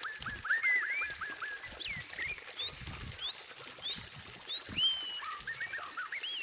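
White-rumped shama (murai batu) singing: a quick run of repeated short notes for the first second or so, then a string of varied whistled notes that swoop up and down.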